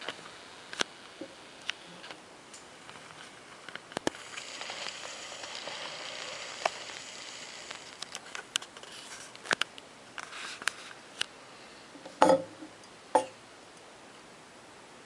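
Handling noise from a small diecast model aircraft being turned over in the hands: scattered light clicks and ticks, a few seconds of soft rustling, then two louder knocks near the end.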